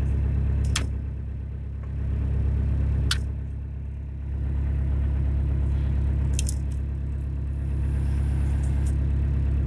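Volkswagen Golf Mk2 GTD's 1.6-litre turbodiesel engine idling, still warming after a cold start. The steady rumble eases off twice and comes back, with a few sharp clicks.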